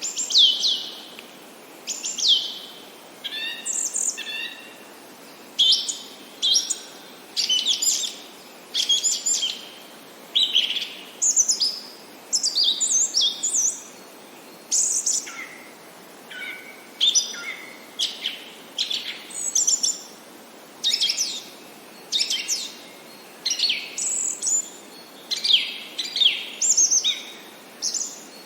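Songbirds singing and chirping: short, high phrases of quick downward-sweeping notes, repeated about once a second.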